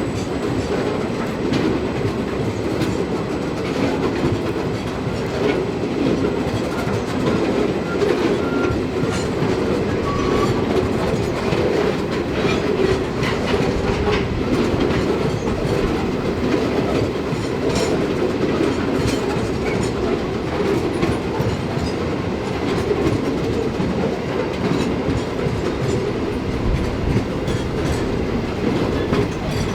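A train's wagons rolling past steadily on the rails, wheels clicking over the track joints.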